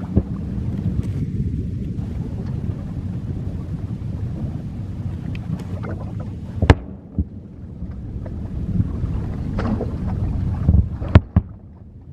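Fireworks display: a continuous low rumble of bursts with several sharp bangs on top, the loudest about seven and eleven seconds in.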